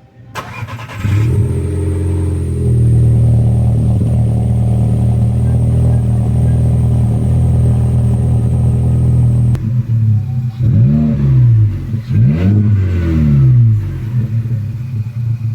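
Seat Ibiza engine running through an exhaust with the rear silencer removed, leaving only pipe and resonator. It rises about a second in and settles to a steady idle. Past the middle, the engine is blipped three or four times, each rev rising and falling.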